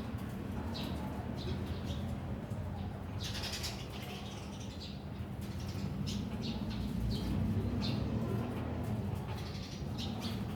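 Birds gathered at a feeder chirping in many short, high calls over a low steady rumble.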